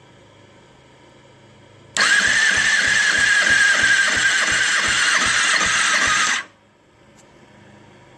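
2009 Kawasaki ZX-6R inline-four engine cranked over by its electric starter for about four and a half seconds during a compression test. It makes a steady starter whine over a quick, regular pulsing beat, then cuts off suddenly.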